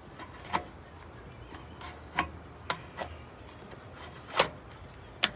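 A series of sharp, irregular knocks and taps, about seven in all, the loudest a little past four seconds in, as hands work on the camper's wall panels.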